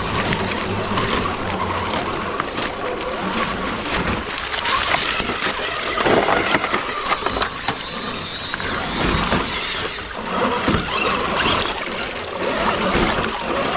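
Churning, splashing water with scattered clicks and knocks, and a few louder thumps about six seconds in and again a few seconds later.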